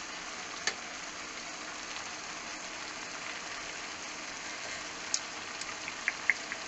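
Pork and cabbage stir-fry sizzling steadily in a frying pan, with a few light clicks of a utensil against the pan.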